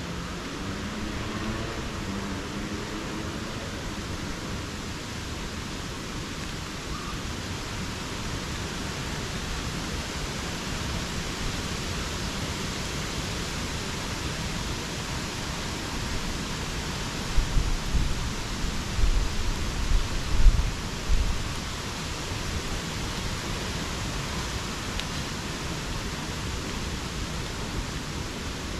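Steady rain falling in subtropical rainforest, a constant even hiss. About two-thirds of the way through, a few seconds of loud low thuds and rumbles break in over it.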